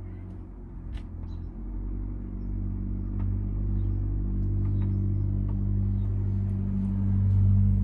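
A motor vehicle engine running with a steady low hum, growing louder toward the end, with a few faint clicks.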